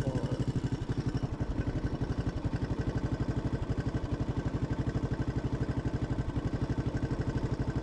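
Motorcycle engine running steadily at low revs, a rapid, even pulsing beat with no change in speed.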